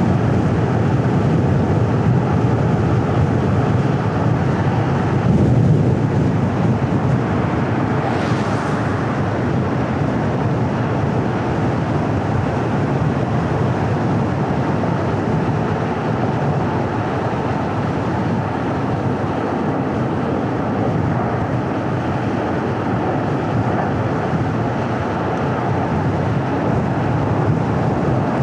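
A car driving along a road: steady engine and tyre rumble with road noise. A brief faint hiss rises over it about eight seconds in.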